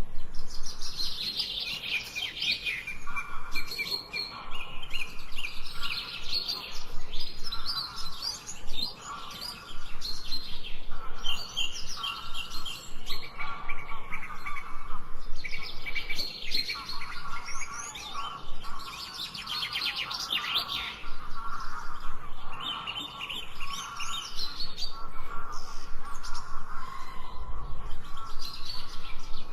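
Birds chirping and singing, with several rapid, overlapping calls at different pitches going on at once.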